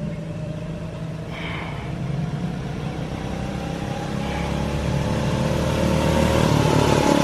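Small single-cylinder engine running and revving, rising in pitch and getting louder through the second half as it comes closer.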